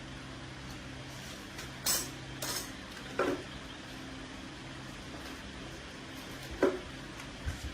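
Steady low mechanical hum, with two short hissing bursts about two seconds in and two sharp metallic clinks, one about three seconds in and one near the end.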